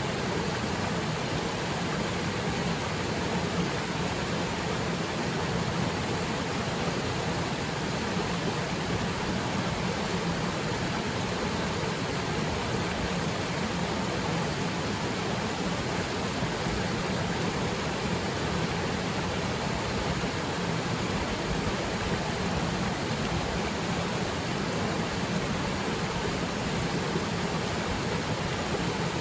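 Waterfall pouring steadily: an even, unbroken rush of water.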